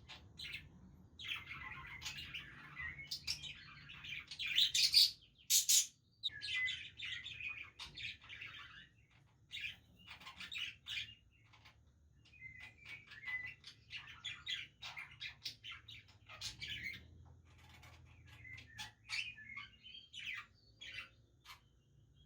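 Budgerigars chirping and chattering in quick, overlapping bursts, loudest about five seconds in.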